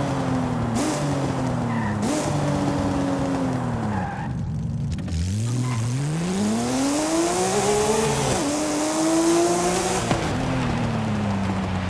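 Porsche Speedster's flat-six engine under way: the pitch falls off for the first few seconds, then about five seconds in it revs up hard through the gear, drops at an upshift, pulls briefly again and settles to a steady cruise near the end.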